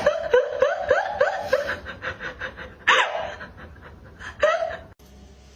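A rapid run of laughter: short bending 'ha' sounds about five a second that trail off, then two more single laughs. The clip cuts to a quieter background just before the end.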